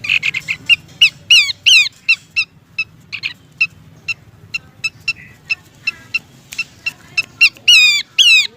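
Abbott's babbler calling: a fast run of short, sharp high notes broken by loud downward-sliding whistled notes, a cluster of them about a second in and another near the end.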